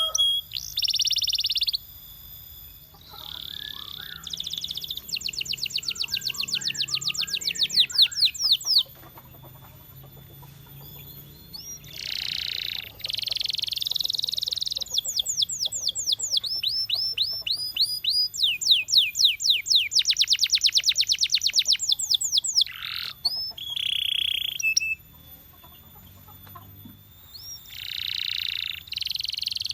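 Male canary singing: a run of phrases made of fast trills of repeated rising notes alternating with buzzy rolls, with brief pauses between phrases.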